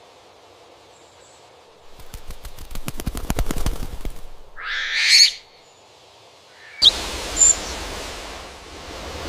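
A quick run of clicks and scratches lasting about two seconds, then one loud, harsh bird call. After that comes an outdoor background hiss with a brief high chirp.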